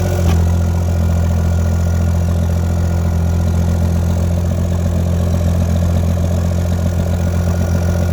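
A mini excavator's small diesel engine running steadily. A third of a second in there is a short knock and the engine note steps up a little, then holds.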